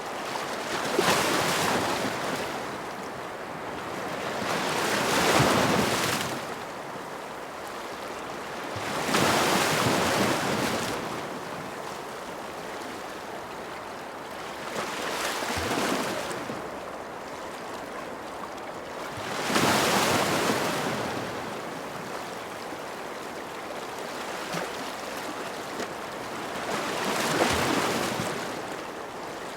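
Ocean waves breaking and washing on a shore, six surges that swell and fade every few seconds over a steady wash of surf.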